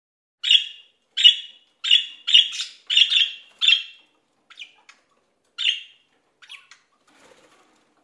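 A bird calling: a series of short, sharp chirps, about one every two-thirds of a second for the first four seconds, then a few fainter, sparser ones.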